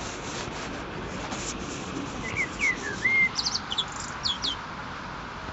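Small birds chirping over a steady outdoor background hiss: a few short whistled notes about two seconds in, followed by a quick run of sharp, high chirps.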